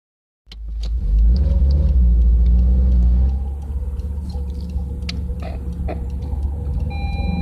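Subaru Legacy's boxer engine and exhaust running with a deep rumble, louder for the first few seconds, then settling to a steady lower level.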